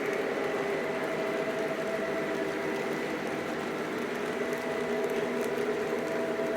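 Lionel Legacy Southern E6 O-gauge model diesel locomotive running on the track: a steady hum and rumble with several held tones.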